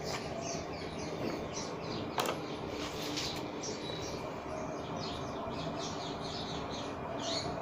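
Small birds chirping repeatedly in the background, with a single sharp click about two seconds in.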